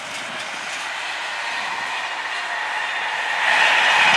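TGV Duplex double-deck high-speed train passing at speed: a steady rushing of wheels on rail and air that grows steadily louder, peaking shortly before the end.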